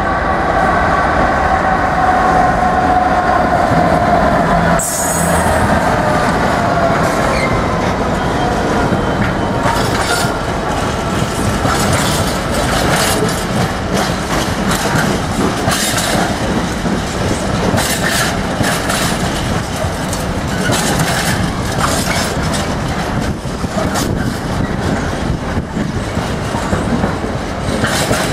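Freightliner Class 66 diesel-electric freight locomotive passing, its engine note of several tones slowly falling in pitch over the first few seconds. Then a long rake of container flat wagons rolls through, the wheels clattering over the rail joints with repeated sharp knocks.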